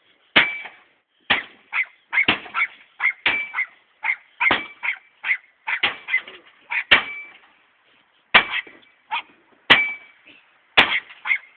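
Repeated blows smashing a broken microwave oven: about twenty irregular hard strikes, some leaving a short metallic ring from the metal casing.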